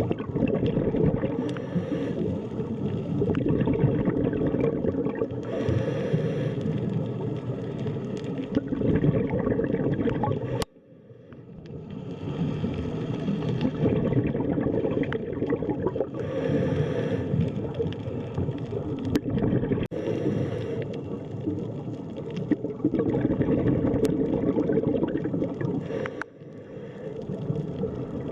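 Underwater ambience: a dense, muffled low rumbling wash with gurgling bubble bursts every few seconds. It cuts out abruptly about ten seconds in and fades back up, with a smaller dip near the end.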